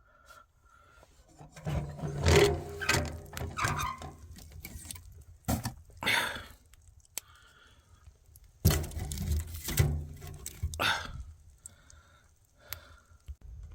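Irregular knocks, thuds and scraping of objects being handled, in two bursts of clatter with a few single knocks between.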